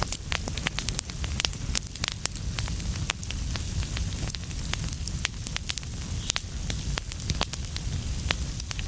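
Wood fire burning in a fireplace: a steady low rumble of flames with sharp, irregular crackles and pops, several each second.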